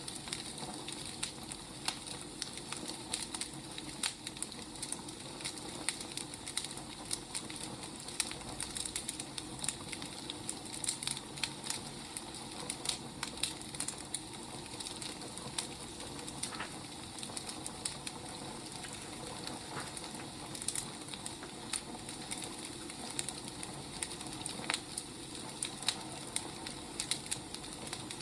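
Wood fire crackling: a steady soft hiss with many irregular sharp pops and snaps from burning firewood.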